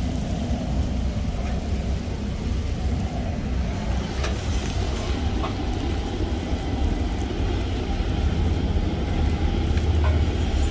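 Wood fire burning hard in a downdraft wood stove: a steady low rumble with a few sharp crackles.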